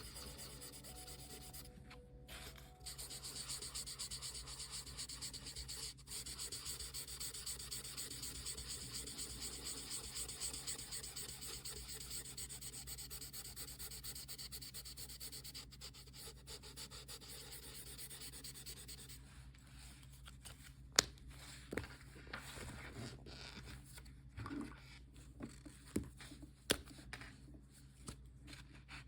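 Copic marker tip rubbing on paper in quick, continuous back-and-forth coloring strokes. About two-thirds of the way through, the strokes become sparser and quieter, broken by a few sharp clicks.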